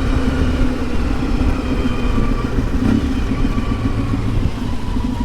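1992 Yamaha XTZ 750 Super Ténéré's parallel-twin engine running steadily while riding, its pitch fairly even.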